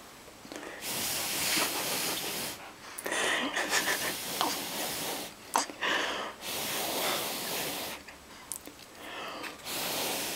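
Air blown in repeated long gusts, four bursts of about two seconds each with short pauses between, making a mock wind storm that blows hair about.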